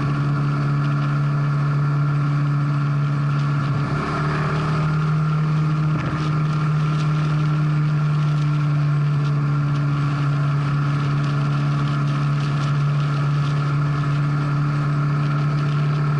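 Motorcycle engine running steadily at highway cruising speed, with a short change in its sound about four seconds in and again about six seconds in.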